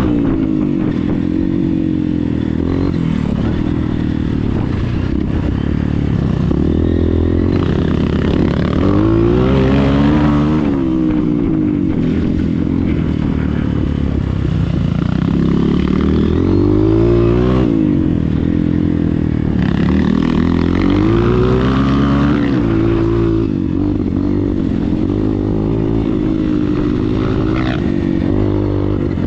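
Motocross bike engine heard from the rider's seat, revving hard and backing off over and over as it accelerates, shifts and slows through the track, with some clatter from the bike.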